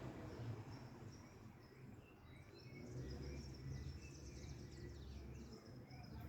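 Low, steady hum of an Arge 60 cm oscillating wall fan running, with small birds chirping in short, repeated calls over it.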